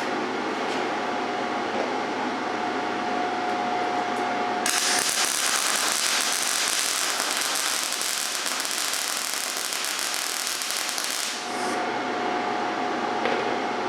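Cheap hobby MIG welder's arc crackling steadily for about seven seconds as a bead is run, starting about five seconds in and cutting off abruptly. Before and after the weld, a steady machine hum with a held tone.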